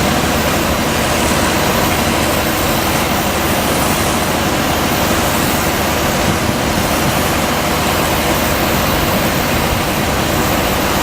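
DS-100 truck-mounted fog cannon running: a steady, loud rush of its fan blowing water mist, over a low engine hum.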